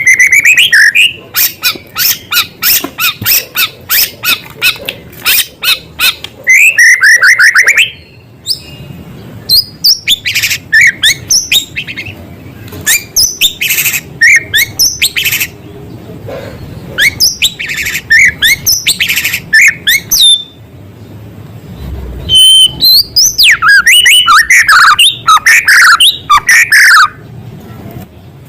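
White-rumped shama (murai batu) singing a loud, varied song. It pours out fast runs of repeated sharp chips and trills and sliding whistles, with phrases copied from small birds, in bursts broken by short pauses.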